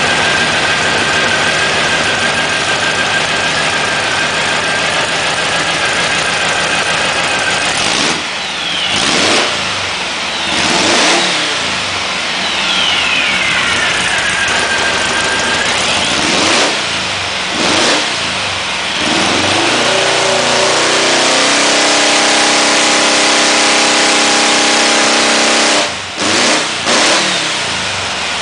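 1914cc dune buggy engine running on a dyno: it holds steady revs at first, is revved down and up several times, holds steady revs again for a few seconds, then is blipped near the end.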